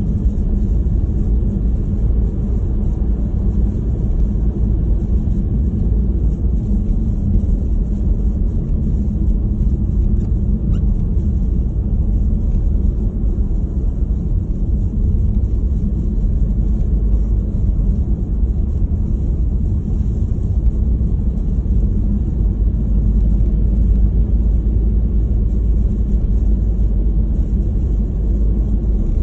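Wind buffeting the microphone in a snowstorm: a steady, loud low rumble.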